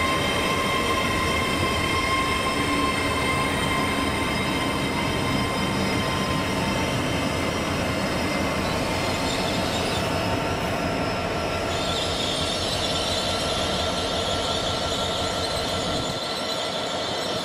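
LNER Azuma Class 801 electric multiple unit running past on the rails, a continuous rumble of wheels on track with a steady high whine over it. The low rumble drops away near the end.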